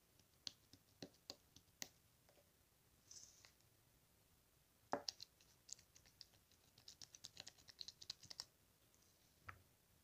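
Slime being handled, giving faint scattered clicks and pops, a short scratchy rustle, one louder click about five seconds in, then a quick run of small pops and clicks from about seven seconds.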